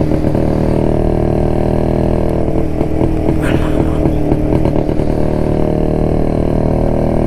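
1972 Jawa motorcycle's two-stroke engine running steadily under way; its note wavers briefly about halfway through.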